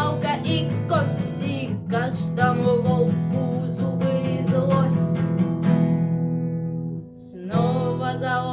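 Six-string Sire A3 acoustic guitar strummed in chords, with a singing voice holding a long, wavering note over it; the sound drops away briefly about seven seconds in before the strumming returns.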